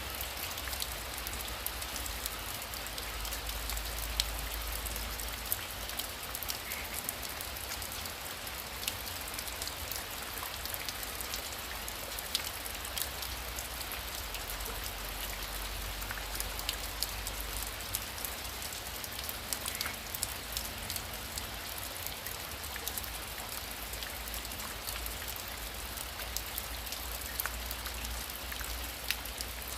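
Heavy rain falling steadily, a constant hiss dotted with many sharp, close drop ticks, over a low rumble.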